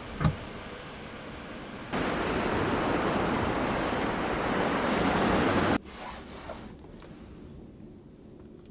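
Sea waves surging on the shore: a loud, even rush of noise that starts suddenly about two seconds in and cuts off abruptly about six seconds in, after a single sharp thump near the start.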